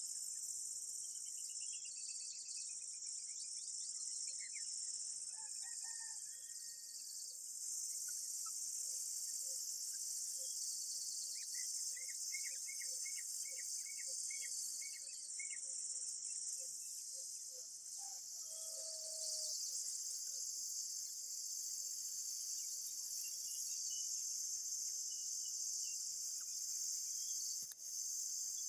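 Steady, high-pitched insect chorus, with faint intermittent bird chirps over it, including a quick run of about ten short chirps partway through.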